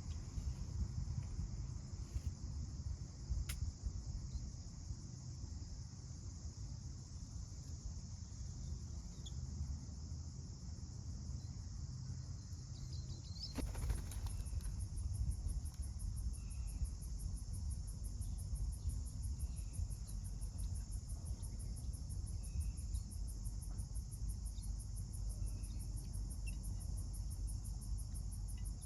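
Steady insect chorus, joined about halfway through by a second, higher-pitched insect call that pulses rapidly and evenly, over a low rumble.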